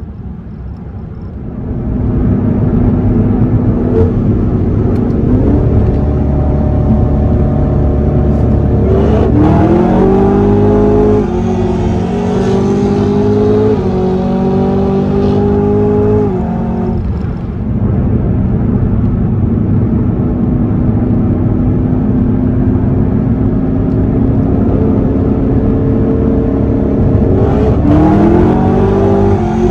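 Stock Camaro ZL1's supercharged 6.2 L V8 heard from inside the cabin: it cruises at a steady pitch, then a third of the way in goes to full throttle, the pitch climbing through two upshifts before the driver lifts off. It settles back to a steady cruise and near the end starts climbing again on another hard pull.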